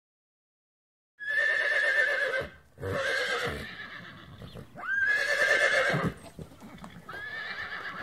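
Horse whinnying four times in a row, starting about a second in: loud, high, quavering neighs about a second each with short pauses between, the later ones opening with a quick upward sweep.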